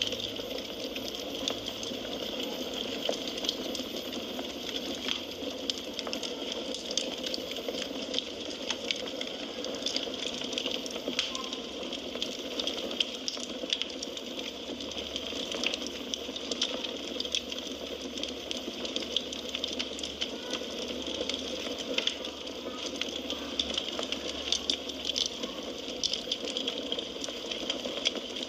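Firewood burning in a fireplace: a steady hiss of flames with frequent, irregular small crackles and pops.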